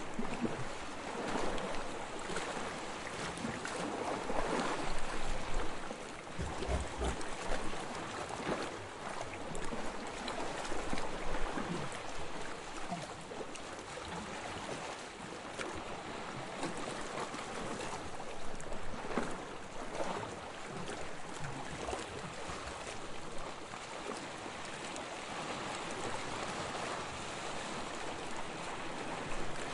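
Soft waves lapping on a sandy shore: a continuous wash of water with fine crackling, swelling and easing in gentle surges, fuller in the first half and lower and steadier later.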